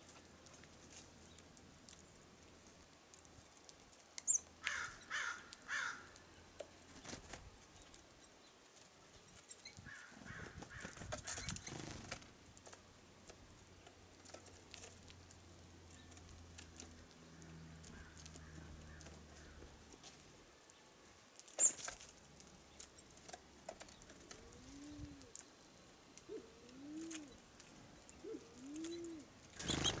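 Birds at a feeder: a few short high chirps and calls, scattered sharp knocks with the loudest about two-thirds of the way through, and near the end a low cooing from a dove, four coos about one and a half seconds apart.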